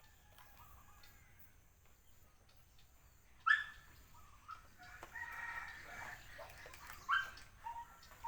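A rooster crowing, one long held crow about halfway through, with short, sharp loud calls a little before and after it.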